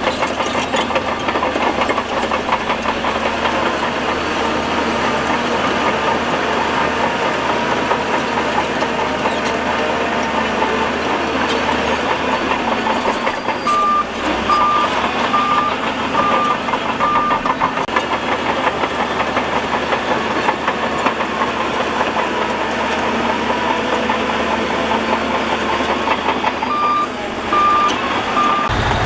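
Heavy diesel machinery running steadily under load, typical of a Shantui DH17C2 bulldozer pushing rock and dirt. A reversing alarm beeps five times about halfway through and three more times near the end.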